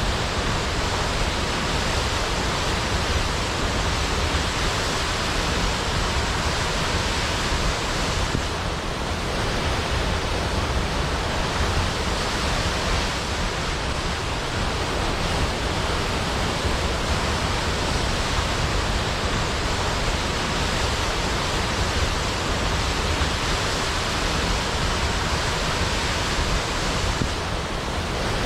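Waterfall: a steady, even rush of falling water, dipping slightly twice, about nine seconds in and near the end.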